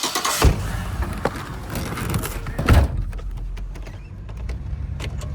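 A thunk like a truck door shutting, followed at once by a steady low rumble of a pickup's engine and road noise as it runs, with a second hard knock near three seconds in.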